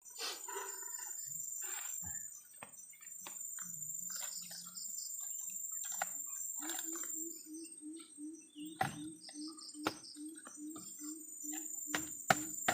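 Insects trilling steadily with small birds chirping. About six and a half seconds in, a low call starts repeating two to three times a second. A few sharp clicks are scattered through it.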